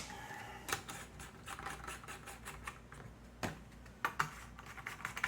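Scattered light clicks and scratches of a multimeter and its test probes being handled and set up to measure voltage, with two sharper clicks about three and a half and four seconds in.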